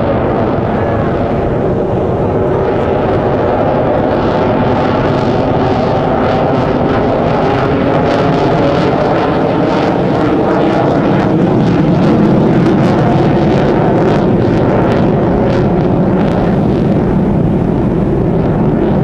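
Military aircraft flying by at an air show: loud, continuous engine noise that swells a little about two-thirds of the way through.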